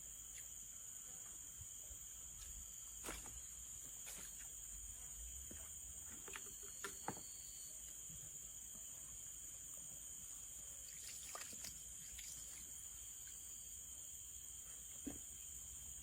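Insects trilling steadily at a high pitch, with a few short clicks and knocks scattered through, the sharpest about seven seconds in.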